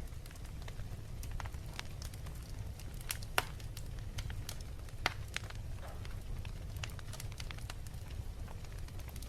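Wood fire in a fireplace crackling, with irregular sharp pops, two louder ones a few seconds in, over a steady low rumble.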